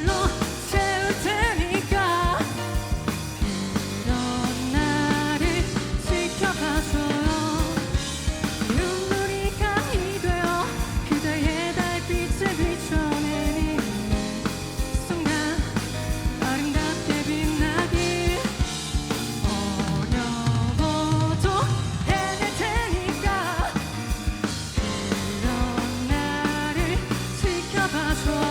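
Live rock band playing: a drum kit keeps a steady beat with snare and bass drum under bass and a melodic lead line.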